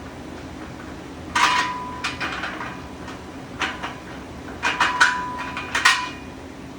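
Steel legs and pins of a Vevor 2-ton engine hoist clanking as they are handled and set in place: a series of sharp metal clanks, several with a short ringing tone, one about a second and a half in and a tight cluster around five seconds.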